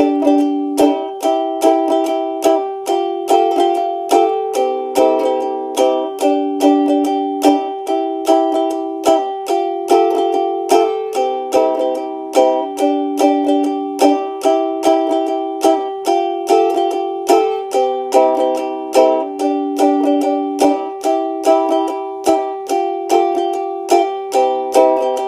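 Instrumental song intro of steady strummed chords on a plucked string instrument, about two strums a second, with the chords changing every few beats.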